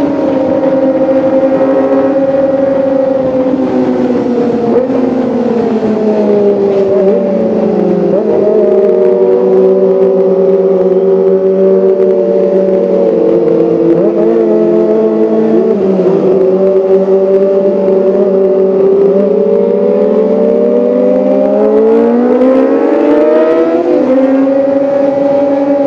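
Kawasaki ZX-25R's 250 cc inline-four engine running at high revs with a sustained high-pitched wail. The pitch falls about six to eight seconds in, holds lower through the middle, and climbs again near the end.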